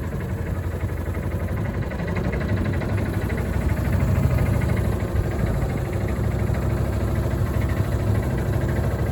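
Heavy machine's engine running steadily under light load, its low rumble building a little about three seconds in.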